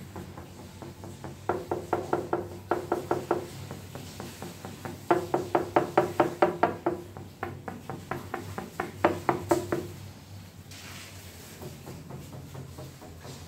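Ceramic tiles tapped with a hard object to check for hollow spots (voids) in the bedding behind them: three runs of quick, even taps, each giving a short ringing knock.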